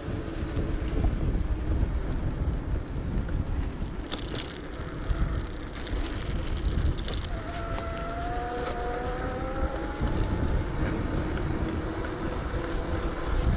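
Wind buffeting the microphone over the rumble of a moving electric bike. A faint whine rises slowly from about seven to ten seconds in.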